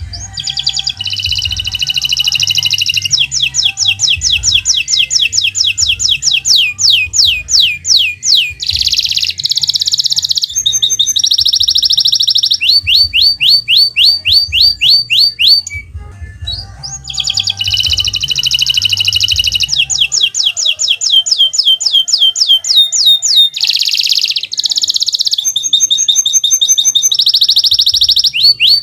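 Domestic canary in full song: long high-pitched rolling trills and fast runs of repeated notes, phrase after phrase, with a brief pause about halfway through.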